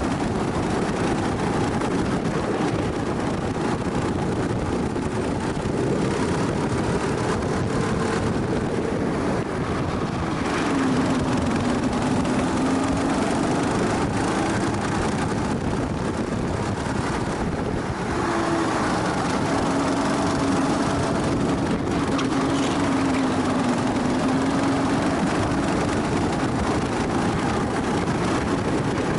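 Go-kart engine running on track, heard from on board, its pitch climbing under throttle and dropping back several times as the kart goes through the lap.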